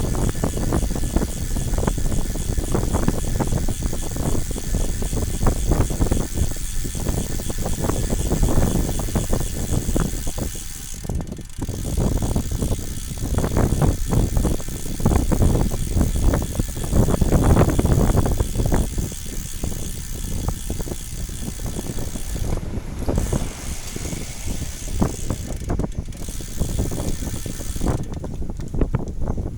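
Bicycle rattling and clattering over rough ground on a downhill ride, with many small knocks and jolts.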